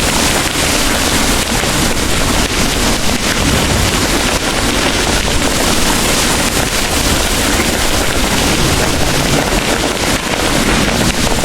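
Heavy rain pouring steadily, a dense even hiss with a deep low rumble underneath.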